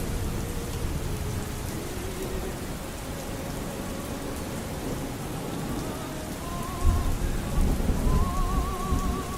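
Steady rain with a faint operatic singing voice with vibrato behind it. About seven seconds in, a low rumble of thunder swells up under the rain.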